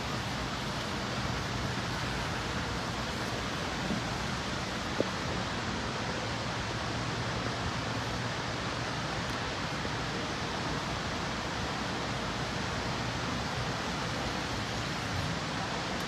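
Steady even hiss with a faint low hum underneath, and a single small click about five seconds in.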